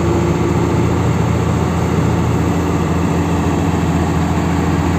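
Heavy diesel engine of large mining equipment running at a steady idle, loud and even.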